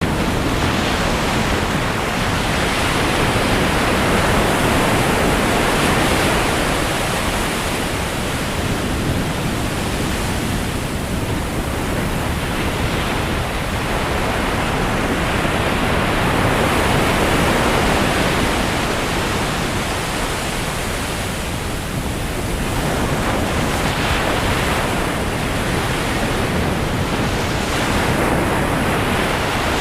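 Sea waves breaking and washing on the shore, a steady rushing that swells and eases every few seconds, with wind on the microphone.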